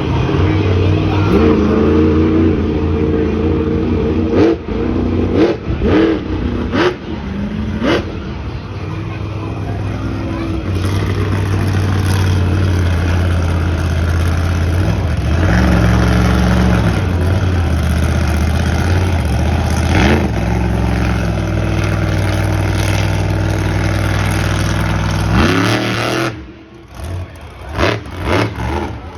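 Monster truck engine revving in a series of short rising blips, mixed with a few sharp bangs. It is then held at high revs for over ten seconds and cuts back about 26 seconds in.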